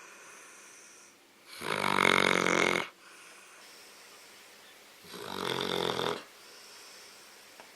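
A sleeping dog snoring: two loud snores, each about a second long and about three and a half seconds apart, with quieter breathing between them. The owners tag the snoring as sleep apnea.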